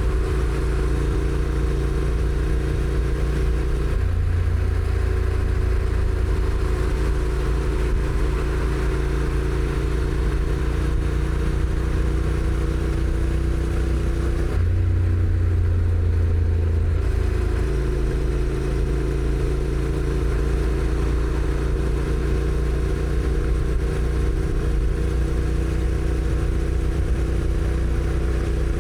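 Honda NC750X's 745 cc parallel-twin engine running under way through its stock exhaust, a steady engine note that steps to a different pitch about four seconds in and again around fifteen and seventeen seconds in.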